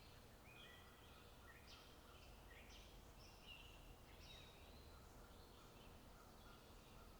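Faint bird song: a run of short chirps and whistled notes repeating every half second or so, over a low, steady background rumble.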